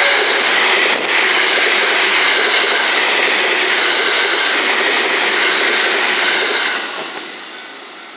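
JR West 227 series electric multiple unit passing close by: a steady rush of wheel and rail noise with a single clack about a second in. It fades away from about seven seconds in as the last car clears.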